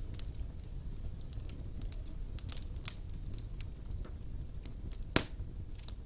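Wood fire burning in a fireplace: a steady low rumble of flames with frequent small crackles, and one loud pop about five seconds in.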